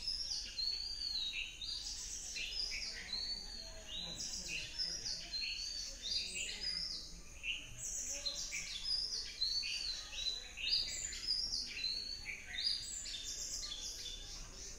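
Several birds chirping and calling at once, many short, high, overlapping notes in quick succession.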